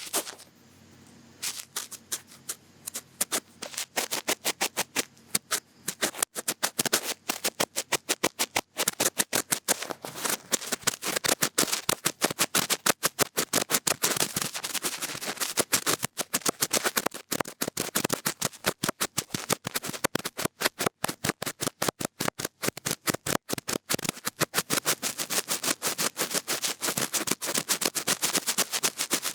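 Cotton bud scraping and rubbing inside an ear-shaped ASMR microphone, a fast crackle of scratches, sparse for the first few seconds and then nearly continuous.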